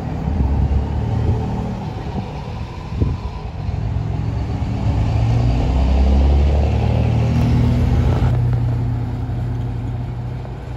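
Diesel locomotive engines rumbling as a train passes, swelling to their loudest around the middle and then fading, with a few sharp wheel clacks over the rail joints in the first seconds.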